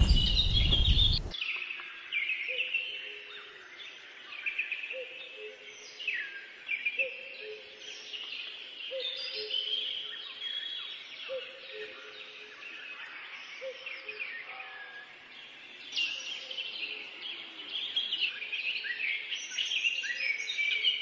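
Several birds singing and chirping in high, quick phrases, over a lower call of two notes, the second slightly lower, repeated about every second and a half. A brief rush of trail noise cuts off about a second in.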